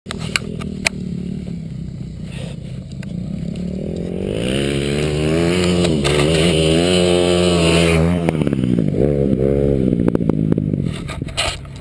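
Dirt bike engine revving up, holding high revs for a few seconds, then dropping off, with a short second rev before it falls away near the end. A few sharp clicks sound in the first second.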